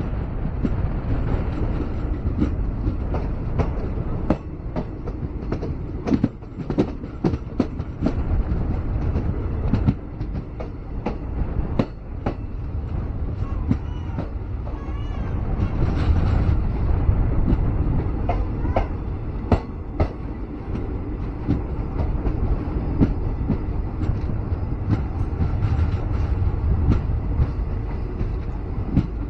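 Passenger train running along the track: a steady rumble with many sharp wheel clacks over the rail joints.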